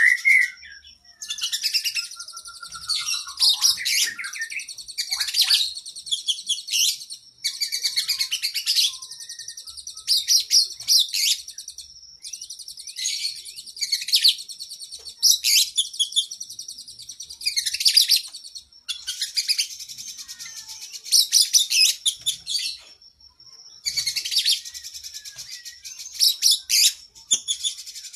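Oriental magpie-robin (kacer) singing in long, varied, high-pitched phrases, each a few seconds long, with short pauses between them.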